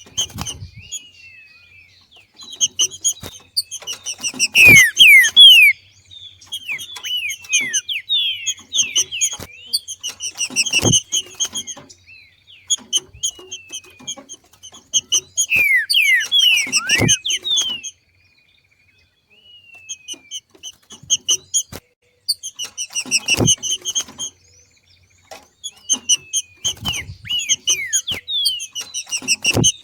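Green-winged saltator (trinca-ferro) giving its 'macheado' chatter, a breeding-season call: repeated bursts of quick high notes mixed with short falling whistles, with brief pauses between bursts. A few sharp knocks sound between the notes.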